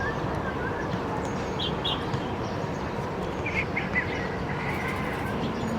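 Eurasian tree sparrows chirping in short, high notes: two quick chirps about one and a half seconds in, then a cluster of chirps around three and a half to four seconds, over steady background noise.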